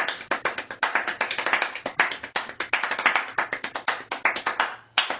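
A rapid, irregular run of sharp claps, several a second, breaking off briefly near the end.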